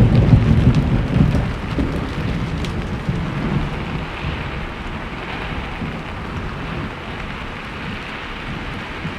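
Steady heavy rain with a roll of thunder, whose low rumble is loudest in the first second and dies away over the next few seconds.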